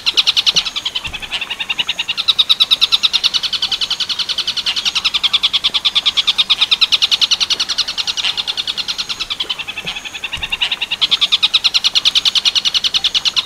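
Tengkek buto (a kingfisher) calling in a long rapid rattling series of evenly repeated notes, about ten a second, that swells and eases with a few short dips.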